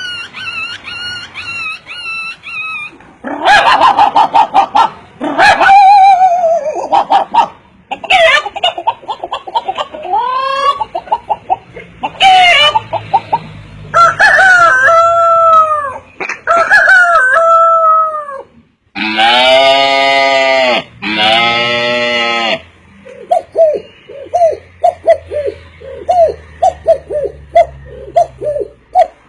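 A bird giving a long, varied series of loud calls: whistled notes, rapid rattling trains of clicks, calls that glide up and down in pitch, two long harsh many-toned calls past the middle, and a run of short rising chirps near the end.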